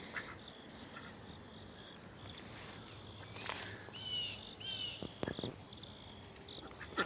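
Steady high-pitched insect trilling, typical of crickets, with two short bird chirps about halfway through.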